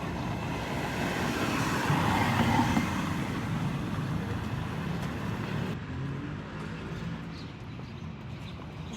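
Road traffic going by: a vehicle passes, loudest about two to three seconds in, and the noise dies down after about six seconds.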